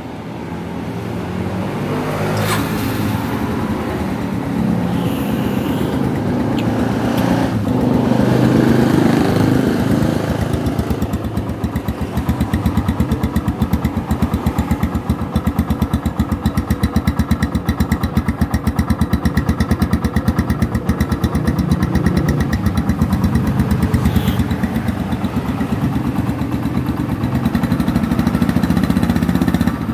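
Yamaha Scorpio's single-cylinder four-stroke engine running through its stock exhaust. It runs up a little around eight seconds in, then settles into a steady idle with an even firing pulse.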